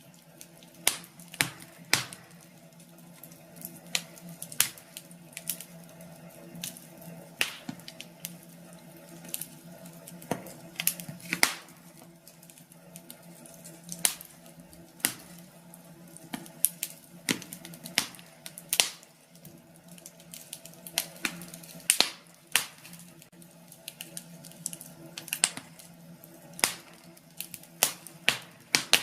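Wood fire crackling in a fireplace: irregular sharp pops and snaps, sometimes several close together, over a faint steady background.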